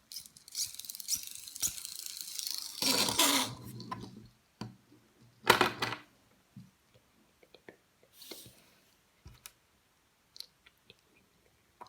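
Plastic LEGO packaging rustling and tearing open, with a louder crinkle about five and a half seconds in, then a few scattered light clicks of small plastic parts.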